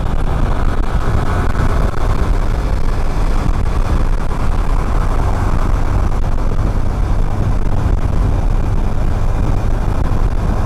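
Motorcycle riding at speed: steady wind rush on the neck-mounted action camera's microphone mixed with engine and road noise.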